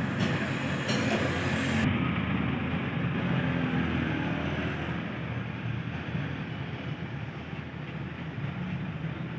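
Steady engine and vehicle noise, a continuous low rumble that slowly gets quieter.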